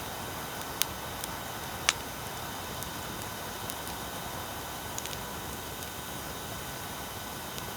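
Wood fire crackling, with a few sharp pops, the loudest about two seconds in, over a steady hiss of recording-equipment noise.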